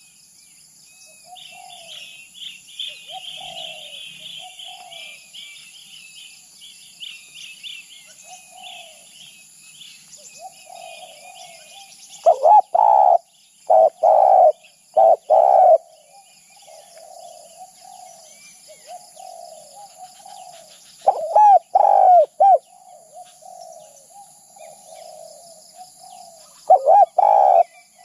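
Spotted dove cooing. Loud groups of three or four coo notes come about halfway through, again two-thirds in, and at the end, with softer cooing between. Other small birds chirp during the first third.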